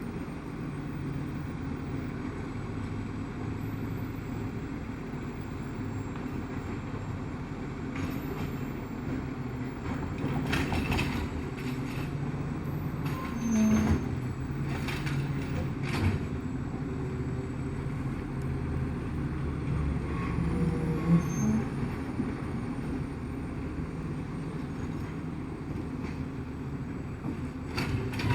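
Garbage truck's engine running steadily while it picks up and empties a recycling bin, with several clattering knocks in the middle of the stretch and one more near the end.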